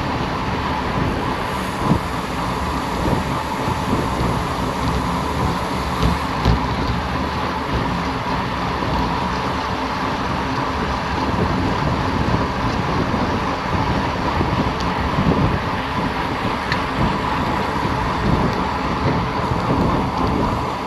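Steady rush of wind and road noise while riding a bicycle at speed.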